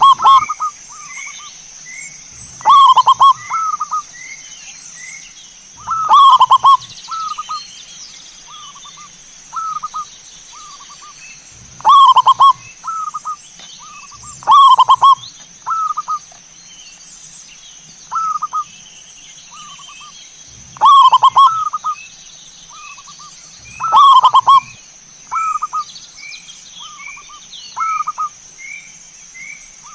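Zebra doves (perkutut) cooing: a loud rolling coo every three seconds or so, with softer coos in between. A faint higher chirp repeats steadily underneath, over a constant high-pitched hiss.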